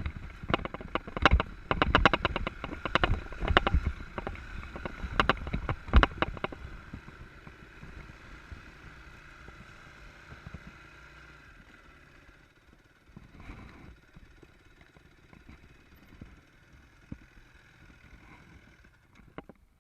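Enduro dirt bike on rough ground, its running engine half-buried under a rapid clatter of knocks and rattles for the first six or seven seconds. Then the clatter stops and the sound drops away to a faint steady hum.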